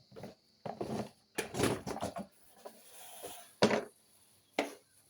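Scattered knocks and clatters of things being moved and handled, with a short rustling stretch in the first half and the sharpest knock about three and a half seconds in.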